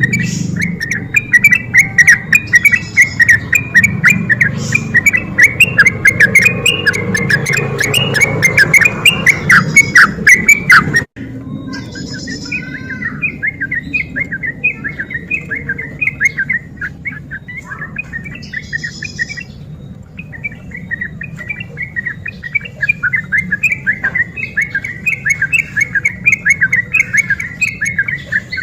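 Yellow-vented bulbul (trucukan) singing a rapid chattering run of short notes. The song breaks off sharply about eleven seconds in and resumes a little quieter.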